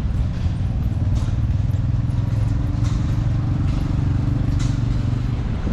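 A large engine running steadily close by, its firing heard as a fast low pulse that grows stronger from about a second and a half in, with a few light clicks over it.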